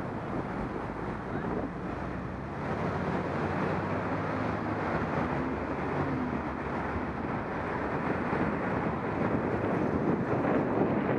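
Wind rushing over an action camera's microphone on a moving bicycle, a steady rumbling noise, with a low hum rising through it for a few seconds in the middle.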